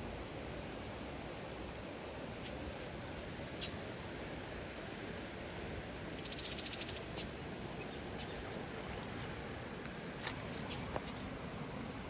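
Steady rushing of a flowing river, with a short buzzy chirp about halfway through and a few sharp clicks near the end.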